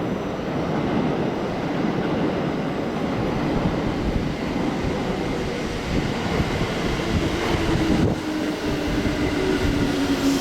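A coupled pair of JR Central 313 series electric multiple units pulls into the station, its wheels rumbling steadily on the rails. About seven seconds in, a steady humming tone rises over the rumble as the train brakes toward its stop.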